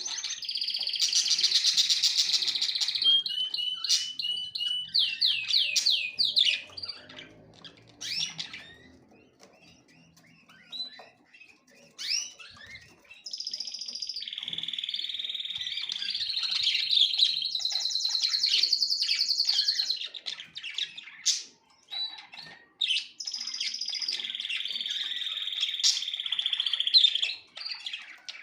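Small songbirds singing: long fast trills and chirped phrases, with a quieter stretch of scattered chirps about eight seconds in before the trilling song picks up again.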